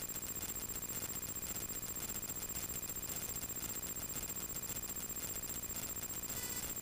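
Light-aircraft engine and propeller noise heard through the cockpit intercom feed: a steady drone with fast, even pulsing and a thin, high steady tone over it.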